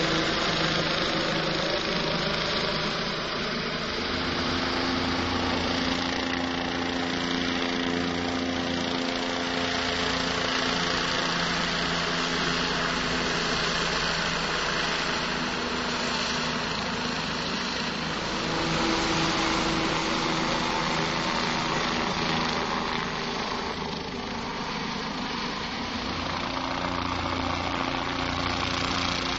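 Boat engine idling and running steadily at low speed, its pitch holding with slight shifts.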